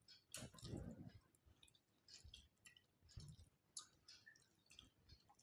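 Faint mouth sounds of eating by hand: quiet chewing and lip smacks with scattered small clicks, a little louder around a second in and again about three seconds in.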